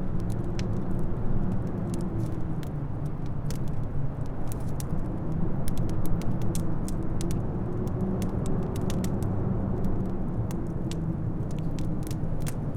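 Wood fire crackling and popping with frequent sharp snaps, over a steady low rumble of wind with a faint wavering howl.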